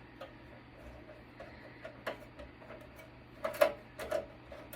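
Scattered light clicks and taps of a screwdriver working a screw out of a network switch's metal chassis, with a sharper click about three and a half seconds in.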